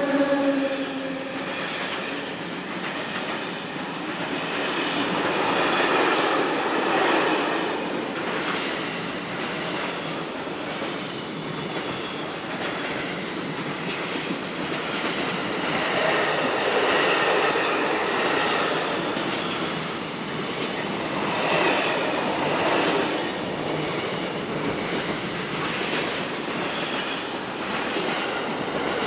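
A train rolling past on the track, its wagons passing in a continuous rumble that swells and fades every few seconds, with faint wheel squeal. A steady pitched tone dies away in the first second.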